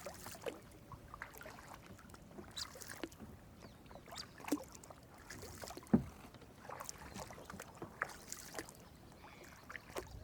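Kayak paddling on open water: irregular small splashes and drips from the paddle, with a sharper knock about six seconds in.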